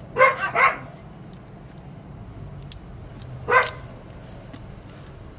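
A dog barking: two quick barks at the start, then a single bark about three and a half seconds in.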